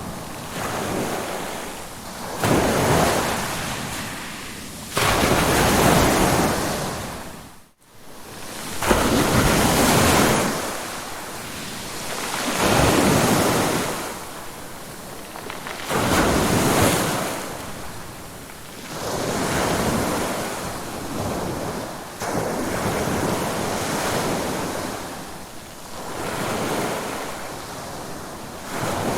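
Ocean surf: waves break and wash in, swelling and ebbing about every three to four seconds. The sound cuts out for a moment about eight seconds in, then the surf resumes.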